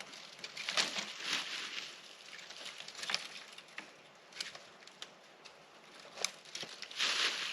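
Dry twigs and leaves being handled: irregular rustling with sharp little snaps and crackles, getting louder near the end.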